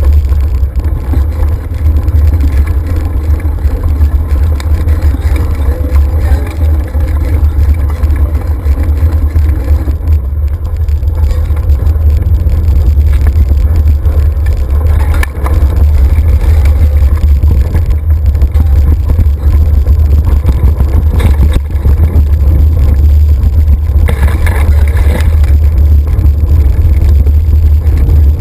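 Loud, steady rumble of wind buffeting the microphone of a camera carried along on a moving mountain bike ride.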